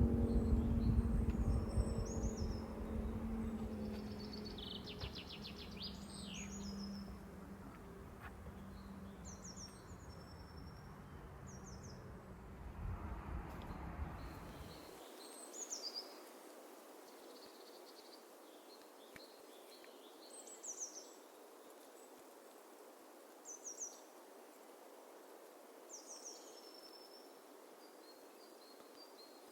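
Small birds chirping: short, high calls repeating every two or three seconds over a steady outdoor hiss. The tail of background music fades out over the first half.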